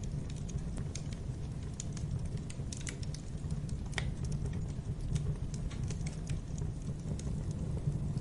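Wood fire burning in a fireplace: a steady low rumble of flames with irregular crackles and pops, one sharper crack about four seconds in.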